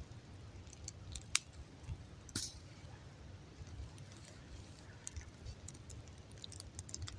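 Faint, scattered crackles and snaps of a wood campfire burning damp birch and conifer logs, with a couple of sharper pops in the first half and a run of small ticks near the end.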